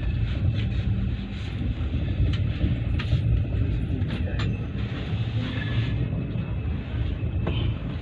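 Steady low rumble of an Indian Railways passenger train heard from inside a third-class AC coach, with a few faint clicks and knocks.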